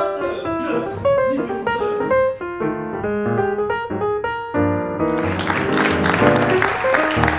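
Piano music playing, with applause breaking out about five seconds in.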